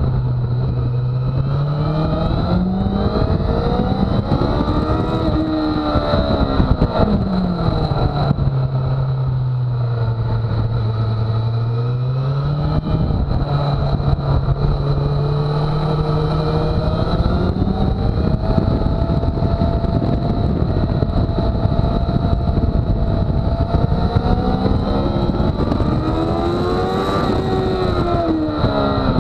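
Sport motorcycle engine on a track lap, heard from a camera mounted on the bike: the revs climb and drop through gear changes, sit low for a few seconds after a drop about seven seconds in, then climb slowly for about ten seconds before falling off near the end.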